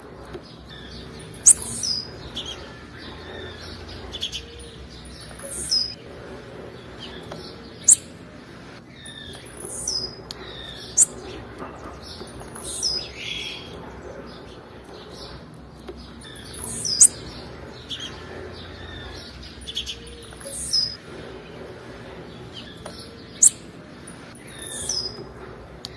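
Blue-black grassquit (tiziu) giving short, sharp, high chirps that sweep downward in pitch, repeating every two or three seconds.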